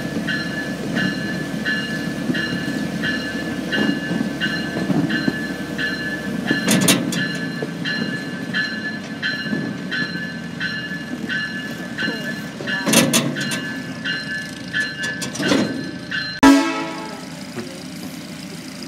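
A 1/3-scale park train rolling into a station over a low rumble of the cars, with a bell-like tone repeating steadily about twice a second and a few sharp clanks. About three-quarters of the way through the ringing stops with a loud bang and a short fading ring.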